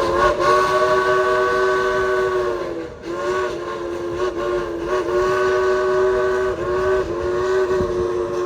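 Steam locomotive whistle on a 2-8-2 engine, blowing a chord of several notes in a string of long blasts broken by short gaps, with the pitch sagging slightly as each blast ends.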